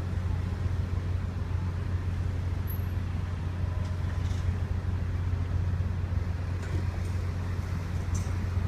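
Ferry engine running with a steady low drone, with faint scattered clicks above it.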